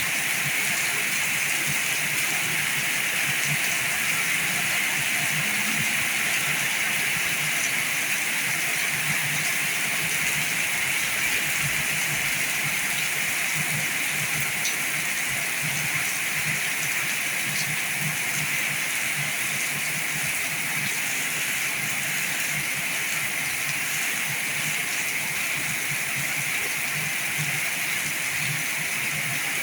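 Heavy rain falling steadily as an even hiss of water, with no let-up.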